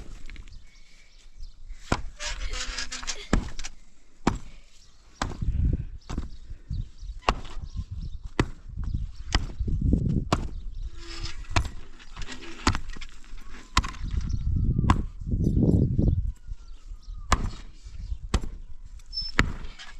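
Hand tools striking wood in irregular sharp knocks and chopping blows, about one or two a second, with bouts of low rumble between them.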